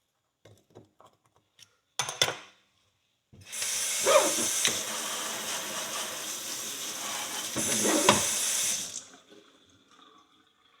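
A few light clicks and scrapes, then a water tap runs for about five seconds over a horseshoe, rinsing off the dirt pried out of it, and is turned off near the end.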